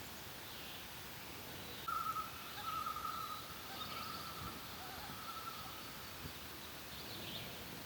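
Common loon giving one long wail, starting about two seconds in and lasting about four seconds, loudest at its start. Small songbirds chirp faintly throughout.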